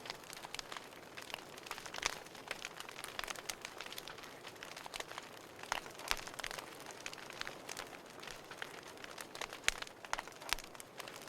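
Burning firewood crackling: a dense, irregular run of sharp pops and snaps over a soft hiss of flame, with a few louder pops scattered through.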